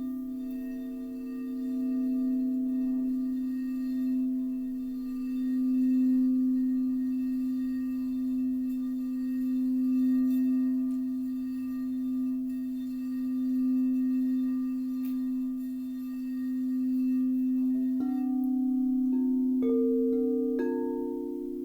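Singing bowls: one low bowl holds a steady ringing tone that swells and fades every few seconds. In the last few seconds, several higher-pitched bowls are struck one after another, their tones layering over the low one.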